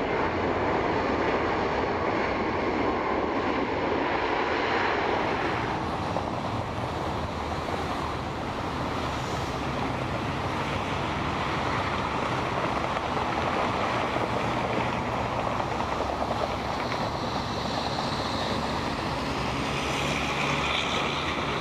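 Boeing 777 freighter's GE90 jet engines running, a steady, continuous noise.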